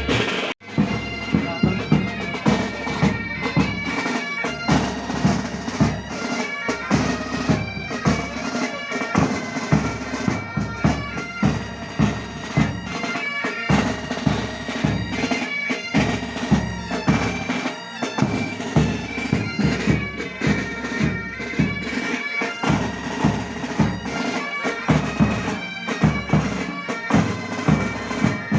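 Pipe band playing: bagpipes holding a sustained melody over a steady, regular drum beat, with a brief break about half a second in.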